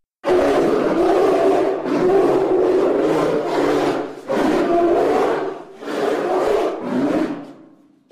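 Brown bears growling and roaring as they wrestle, in about five long bouts with short breaks between, the last one fading out.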